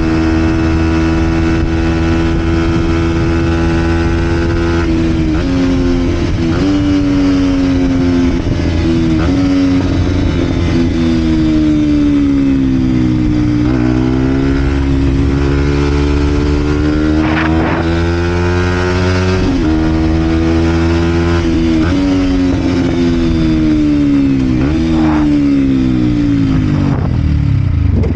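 Vent Derapage 125 four-stroke motorbike with a full Scalvini exhaust, riding along. The engine holds a steady pitch for about five seconds, then its revs rise and fall through several gear changes, and they drop away steadily near the end as the bike slows.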